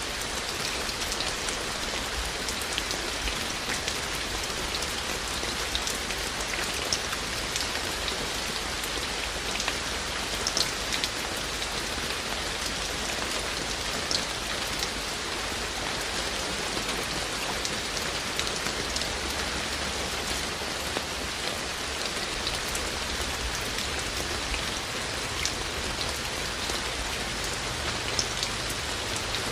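Steady rain falling, with many individual drops ticking sharply on hard surfaces.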